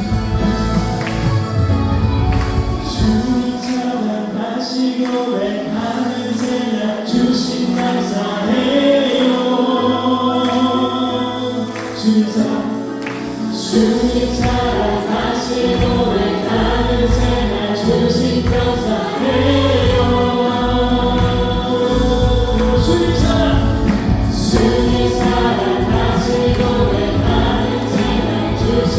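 Church praise band and singers performing a worship song: vocals over keyboards, electric guitar, bass and drums. The bass drops back for a stretch and comes back in full about fourteen seconds in.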